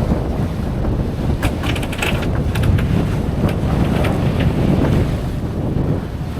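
Wind buffeting the microphone aboard a moving catamaran: a loud, steady low rumble mixed with the rush of water along the hull, with a few short clicks about two seconds in.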